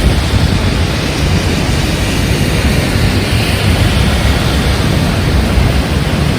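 Strong wind buffeting the microphone with a steady, heavy low rumble, over the even hiss of heavy rain.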